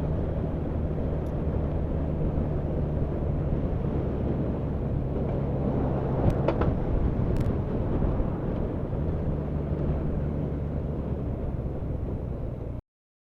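Motorcycle engine running at a steady road speed under a constant rush of wind noise, its pitch shifting slightly a couple of times. The sound cuts off suddenly near the end.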